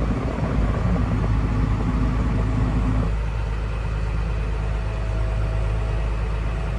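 Farm vehicle engine running steadily, with a mechanical rattle over it that cuts off about three seconds in.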